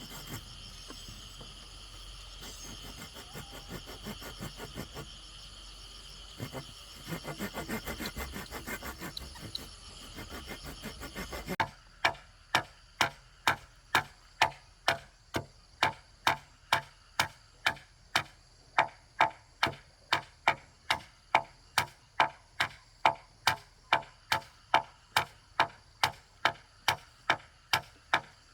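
Insects trill steadily; then, a little over a third of the way in, a hand tool starts striking wood in an even run of sharp blows, about two a second.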